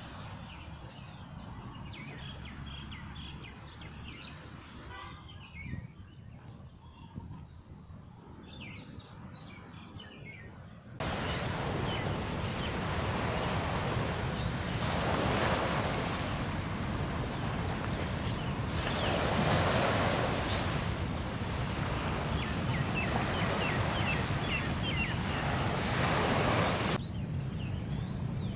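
Sea surf breaking on the shore: a steady rushing of waves that swells now and then. It starts quieter with small bird chirps over it, then jumps suddenly louder about eleven seconds in, and drops back a little near the end.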